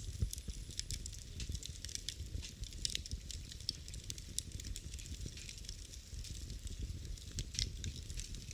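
Fire burning in a fireplace: a steady low rumble of flames with frequent irregular crackles and pops from the burning wood.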